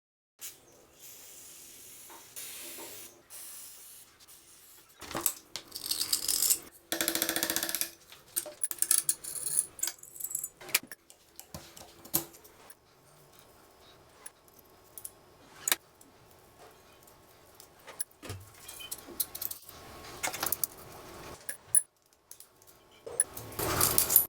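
Small metal gun parts clinking, rattling and scraping as they are handled and worked on, with a few short bursts of scraping or brushing noise between the clicks.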